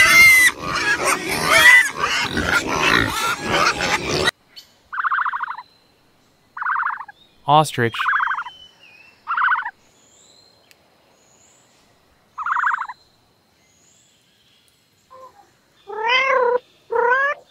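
A pig squealing and grunting loudly, cut off sharply about four seconds in. Then an ostrich gives a series of about five short calls, each about half a second, spaced a second or more apart. Near the end a cat starts meowing.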